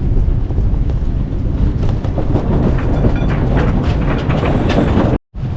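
Strong wind blasting the microphone on a sailboat tacking in high wind, with a rapid, irregular clatter from about two seconds in. The sound cuts out for an instant near the end.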